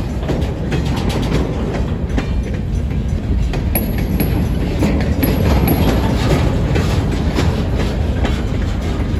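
Freight train of centerbeam flatcars rolling past, a steady rumble of steel wheels on rail with frequent clacks over the rail joints.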